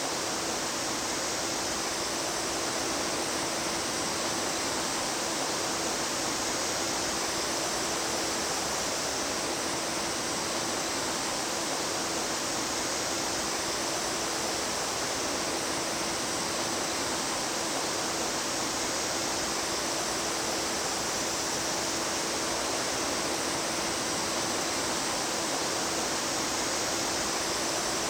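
Mountain stream water rushing and splashing steadily over rocks, an even hiss with no change, with a faint steady hum underneath.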